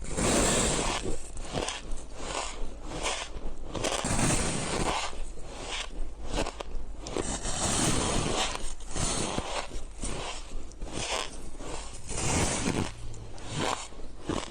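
White shaved ice being bitten and chewed close to the microphone: a dense, irregular run of crisp, gritty crunches, several a second.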